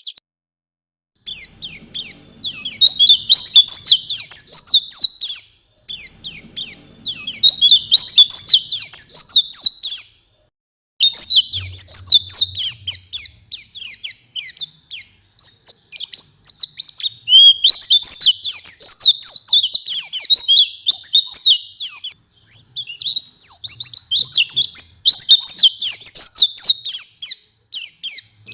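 White-eye (pleci) singing vigorously: long, dense phrases of rapid high chirps and twitters. The phrases are broken by short pauses, with the song starting about a second in.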